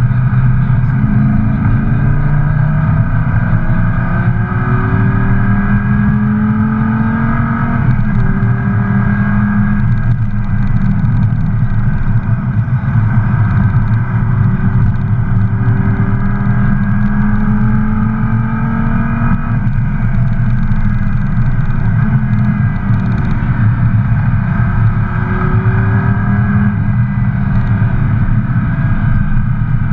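Lamborghini Gallardo Valentino Balboni's V10 engine pulling on track, its pitch rising as it accelerates and dropping back again, over and over, under a steady rush of road noise.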